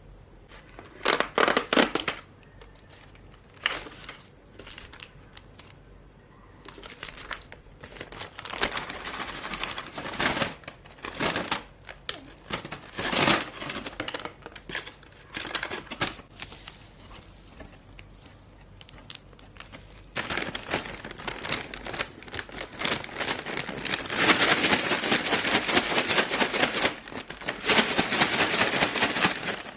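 Packaging crinkling and rustling as it is handled and torn open, in irregular bursts that run longest in the second half.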